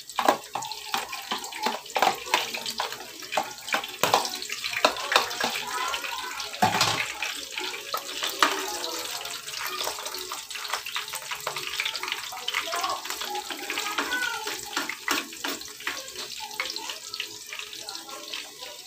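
Dilis (small anchovy) fritters frying in hot oil in a pan: steady sizzling with dense crackling and popping, and a few louder pops.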